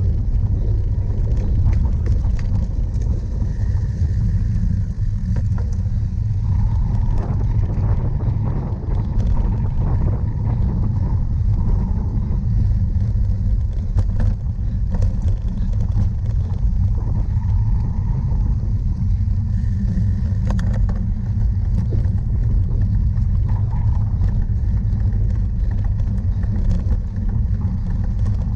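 A steady low rumble, with scattered clicks and rattles, from a bicycle ridden fast over rough ground.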